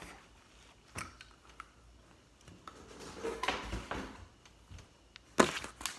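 Scattered light taps and clicks of small objects being handled, with a rustling stretch midway and a louder clatter of knocks near the end.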